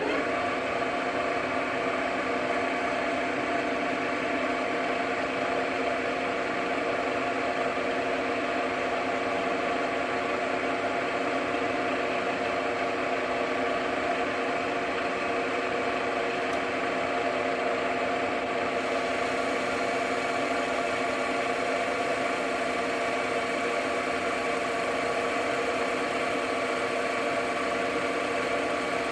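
JFMT metal lathe running steadily under power during a turning pass on a stud's diameter. Its motor and gear train give a constant hum made of several steady tones.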